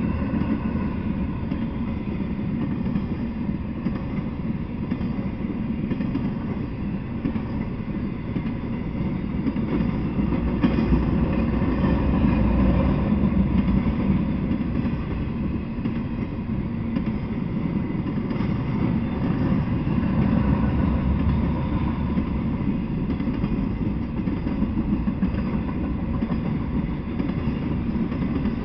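Intermodal freight train rolling past, its container well cars and trailer-carrying flatcars running on steel wheels and rail in a steady low rumble. The rumble swells a little about eleven seconds in and again near twenty.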